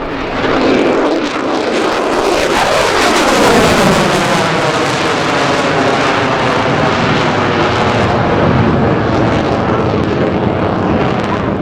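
F-35A Lightning II fighter jet's F135 afterburning turbofan flying past, its engine noise falling in pitch as it goes by about one to four seconds in, then staying loud and steady.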